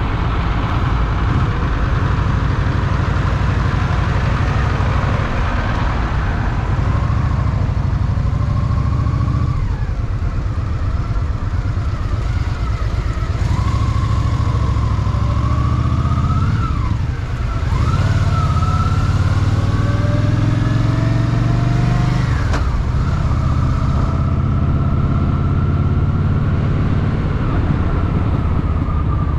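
Honda Shadow VT750's V-twin engine running under way in city traffic. Its pitch twice climbs and then drops back sharply, about halfway through and again some five seconds later.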